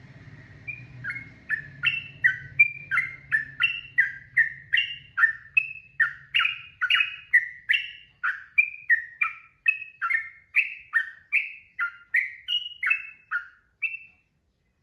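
Yellow-vented bulbul (trucukan) singing a long unbroken run of quick clear notes that alternate higher and lower, a little over two a second. The song stops abruptly near the end.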